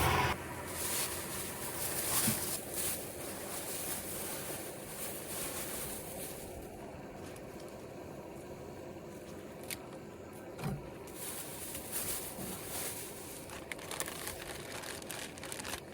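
Road traffic passing on a highway, a steady rushing noise that swells and fades a few times, with a few faint clicks and knocks.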